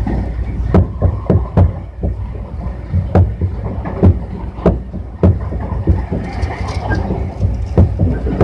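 Tobu 60000 series electric multiple unit running, heard from inside the car: a steady low rumble with sharp wheel clacks over rail joints at uneven spacing.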